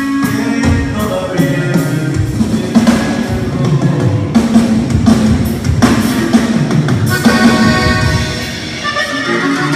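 A band playing live, with drum kit and bass under pitched melody lines.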